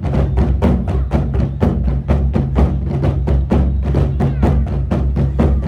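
Korean buk drum ensemble playing a fast, even beat of about six strikes a second, a rhythm meant to evoke galloping horse hooves, over a steady low tone.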